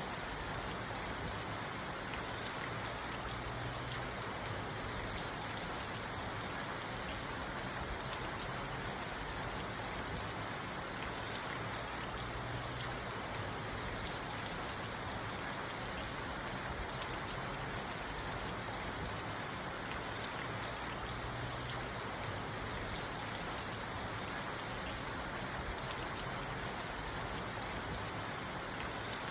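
Steady rain falling on a parked car's roof and windows, heard from inside the car as an even, unbroken patter and hiss.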